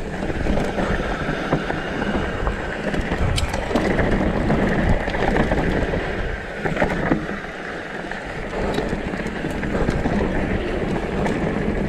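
Downhill mountain bike descending a rough trail: wind rushing over the microphone and tyres rolling on dirt and rock, with scattered clicks and rattles from the bike.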